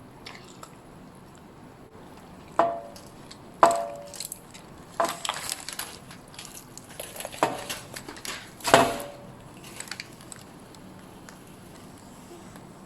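Kitchenware being handled: about five sharp knocks and clinks, several with a brief ring, and lighter clicks in between.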